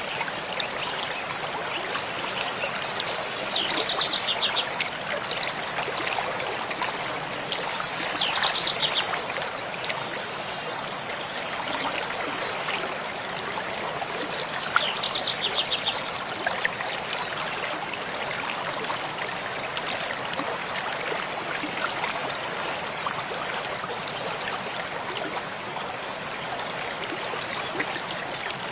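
Mountain stream flowing steadily over rocks. A songbird sings short, fast trilling phrases three times: about three seconds in, around eight seconds, and near fifteen seconds.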